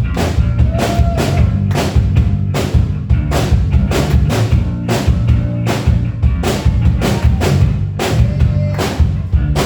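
Live rock band playing an instrumental groove without vocals: a drum kit keeps a steady beat of kick and snare, about two hits a second, over a sustained low bass line.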